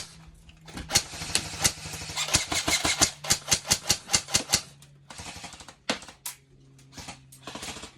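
Airsoft gun firing a rapid string of shots, about four a second, then a couple of scattered shots later on, over a steady low hum.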